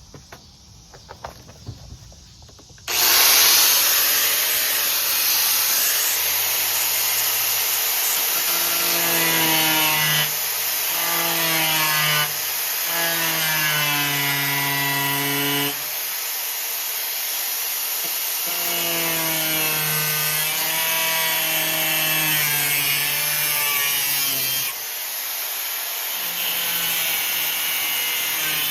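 A power tool cutting through the car's sheet-metal floor pan. It starts suddenly about three seconds in and runs on loudly, with a high hiss and a motor pitch that wavers up and down as the tool loads.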